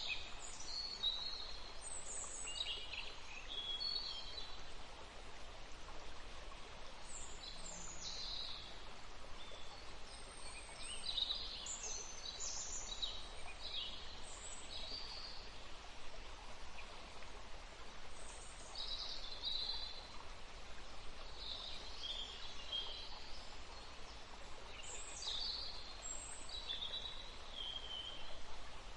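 Several songbirds chirping and trilling in short, high phrases throughout, over a faint steady hiss of background noise.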